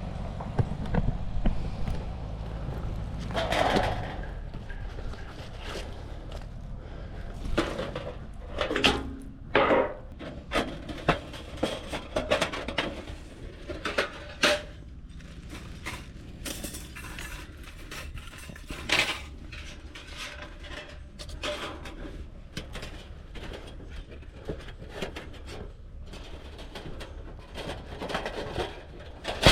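Light metal camping gear clinking and knocking as it is handled, in an irregular run of sharp clicks, some with a short ring.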